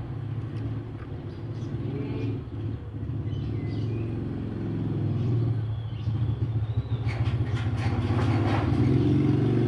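A motor vehicle's engine running steadily and slowly growing louder, with faint bird chirps over it; from about seven seconds in, a denser run of rattling, clicking sounds joins it.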